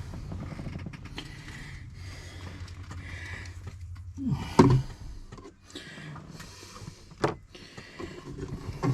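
Handling noises in a truck cab: a steady low hum, then a loud knock about halfway through and a couple of sharp clicks later on.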